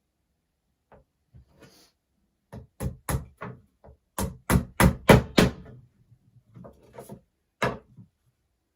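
Sharp knocks on wood as wooden beehive frame parts are tapped together during assembly. There are a few light taps at first, then a loud, rapid run of about five knocks at roughly four a second around the middle, and a few more near the end.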